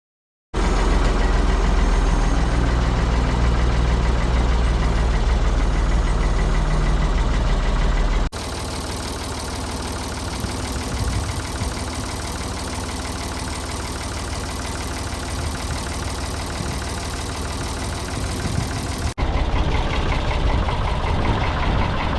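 Ford 555 backhoe loader's engine running steadily. The level drops abruptly about a third of the way in and comes back up near the end.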